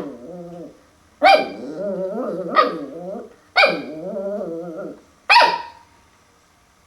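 Puppy growling in long wavering rumbles, broken by four sharp barks, at his own reflection in a mirror, which he takes for another dog.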